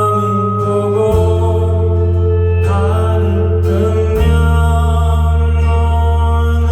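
Live band playing an instrumental passage: sustained chords over a deep bass, changing chord every second or two.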